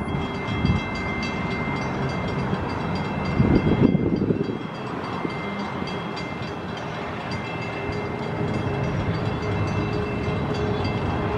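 Long Island Rail Road train running by, a steady rumble with a few faint steady whines above it; the rumble swells louder for about a second around three and a half seconds in.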